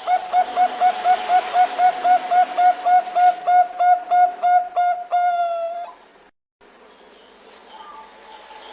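Zebra dove (Bangkok perkutut) calling: a fast, even run of short cooing notes, about five a second, ending in one longer drawn-out note about six seconds in, then breaking off suddenly. This is a looped lure call for coaxing other zebra doves to sing.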